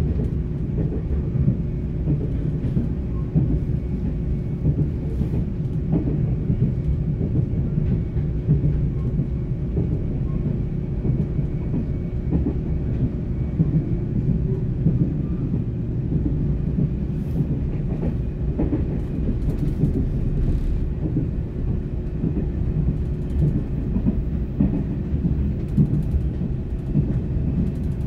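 Interior running noise of a Taiwan Railways PP Tze-Chiang push-pull passenger coach at speed: a steady low rumble of wheels on rail with a steady hum, and light clicks now and then.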